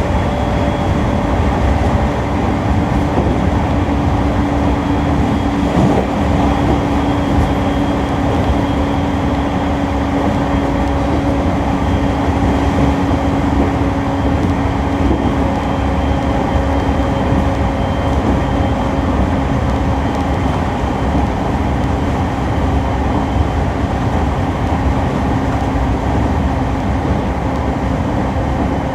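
E231 series electric train heard from aboard while running at speed: a steady traction-motor hum over rail and wheel rumble, its pitch easing slowly lower.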